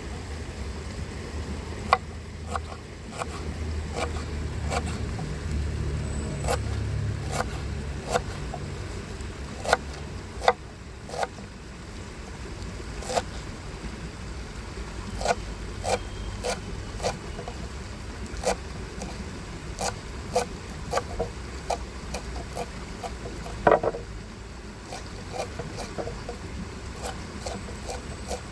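Irregular sharp clicks and knocks, sometimes several a second, over a low steady rumble that swells for a few seconds early on; the loudest knocks come about two seconds in, around ten seconds in and near the end.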